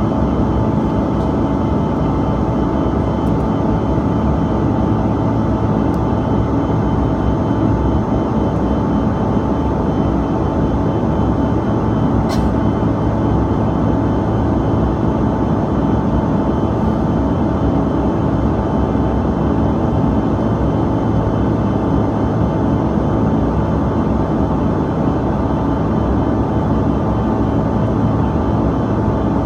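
Steady cabin drone inside a Bombardier CRJ-200ER airliner: the hum of its rear-mounted GE CF34 turbofans mixed with airflow noise, unchanging throughout. A faint short high chirp comes about halfway through.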